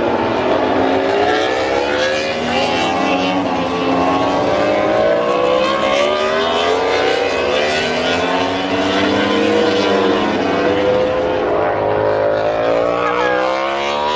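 Racing motorcycle engines on track, several at once, their pitch rising and falling as they accelerate, shift and pass.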